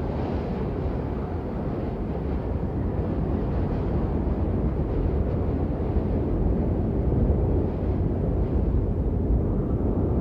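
Steady rain: an even, unbroken rush with a deep low rumble and no single drops standing out.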